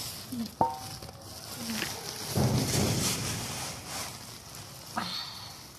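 Chicken feed grain rustling as it is scooped by hand from a sack, with a sharp click about half a second in and another near the end.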